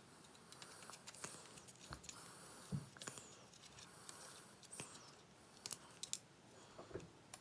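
Faint, irregular clicks and taps of small plastic parts being handled and fitted together at close range.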